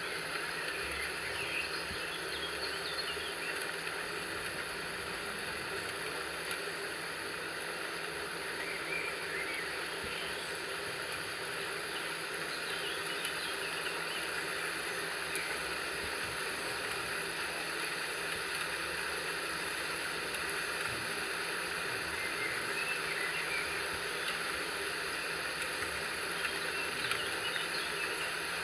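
Steady rain-like hiss of a nature ambience, with brief bird chirps and trills now and then.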